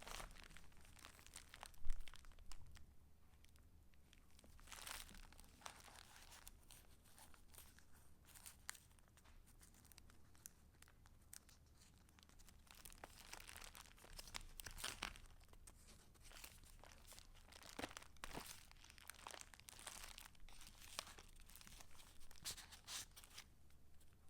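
Paper pages of a handmade junk journal rustling and crinkling as they are handled and turned, in many small irregular crackles. A thump about two seconds in.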